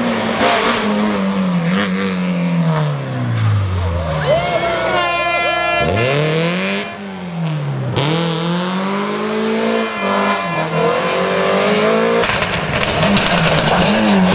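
Rally car engine at full effort, its pitch falling steadily as it slows and shifts down, then climbing and dropping again as it revs through the gears and pulls away. A brief high squeal comes about five seconds in, and the engine sound changes abruptly about twelve seconds in.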